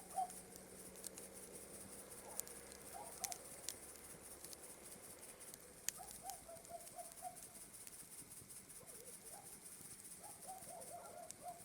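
Campfire crackling with scattered sharp pops, under a steady high chirring of night insects. Twice a quick run of short, low calls from a night bird or frog breaks in, the second near the end.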